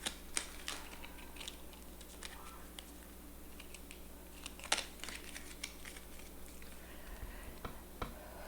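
Cards being handled and laid down on a table: scattered light clicks and flicks at an uneven pace, with one sharper snap a little past the middle.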